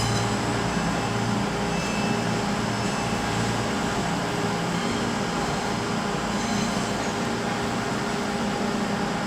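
Steady railway platform ambience: an even hiss with a low drone and a few held tones, as rain falls on the station.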